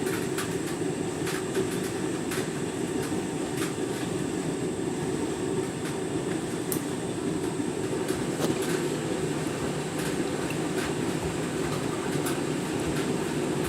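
Candy washing machine running in its deep rinse: a steady rumble from the drum, with irregular light clicks and knocks.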